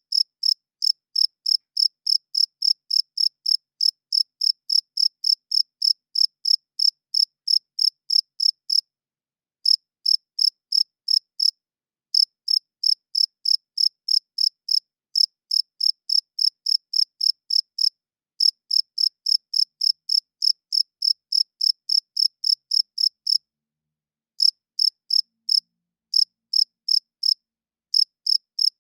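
Cricket chirping: a steady run of short, high-pitched chirps at about four a second, broken by a few brief pauses, the song male crickets make by rubbing their wings together.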